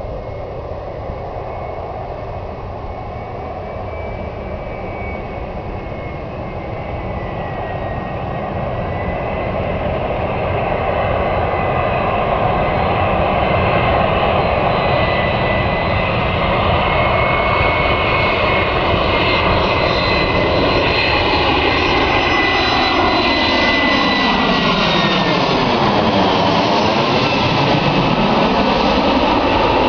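Airbus airliner's jet engines during the landing approach, growing louder over the first ten seconds or so and then holding a steady loud rush with whining tones, with a sweeping whoosh in the last few seconds.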